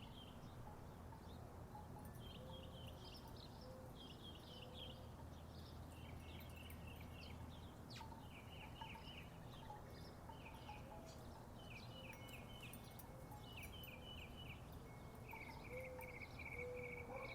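Faint outdoor ambience: a songbird repeating short, quick chirped phrases every second or two over a low steady hum. A few soft wooden wind chime notes sound, getting louder near the end.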